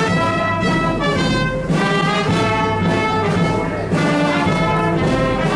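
Brass band music: trumpets and trombones playing a melody with steady accompaniment.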